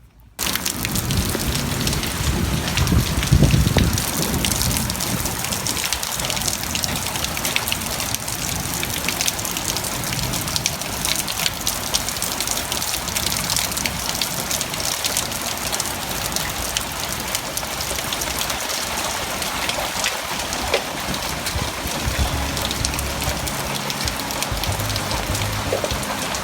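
Heavy rain pouring down steadily in a dense hiss of drops, starting abruptly just after the start. A brief low rumble swells about three seconds in.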